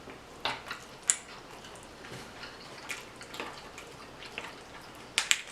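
Close-up wet chewing and mouth smacks from eating a bacon cheeseburger in a lettuce wrap: scattered short smacks, with a quick cluster near the end.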